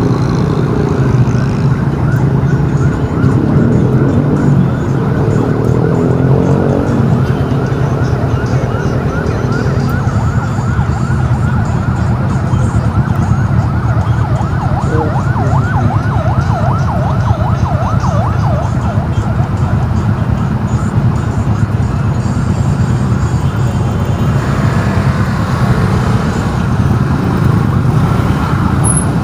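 An emergency-vehicle siren in a fast rising-and-falling yelp, strongest through the middle of the stretch, over the steady low rumble of engines and traffic.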